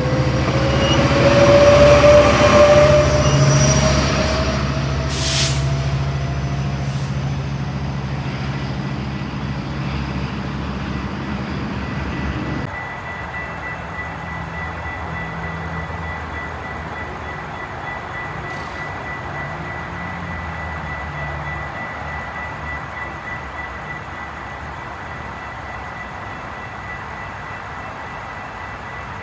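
A train going by: a diesel locomotive and rail cars, loudest in the first few seconds with a slowly rising wheel squeal. The sound then falls away, drops suddenly about halfway through, and a lower steady rumble continues.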